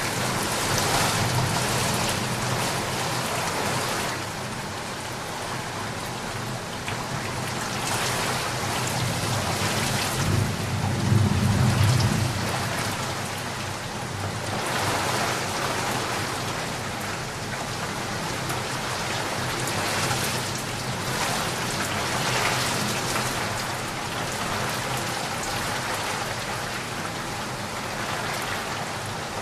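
Rain falling steadily in a dense, even hiss that swells and eases, with a low rumble of thunder building and peaking about a third of the way in.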